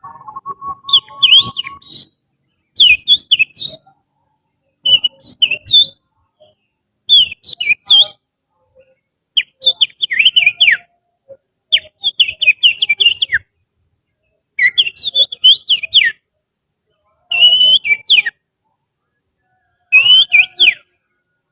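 Finger whistling that imitates the song of an oriental magpie-robin (kacer): short phrases of quick, sharply rising and falling whistled notes, repeated about every two seconds with brief gaps between them.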